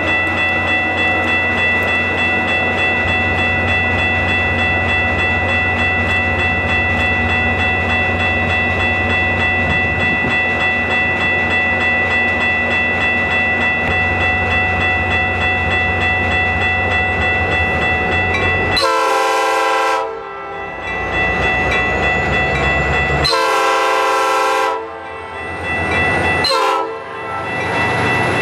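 Metra commuter train's diesel locomotive running steadily with a constant rumble. About two-thirds through, its multi-chime air horn sounds long, long, short, and a fourth blast starts at the end, the standard grade-crossing signal.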